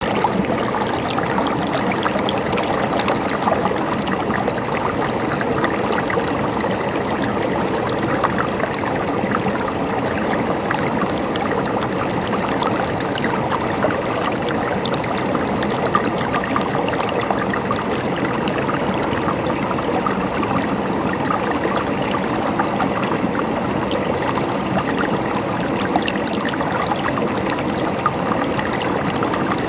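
Flowing water of a stream, running and trickling steadily.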